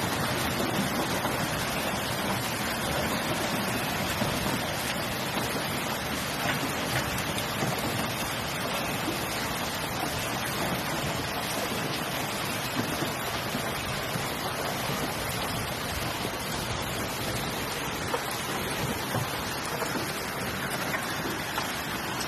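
Heavy rain falling steadily in a storm, an even hiss with a few faint ticks scattered through it.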